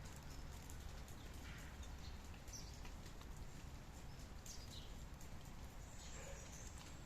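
Steady rain with drops pattering, and a few short high bird calls over it.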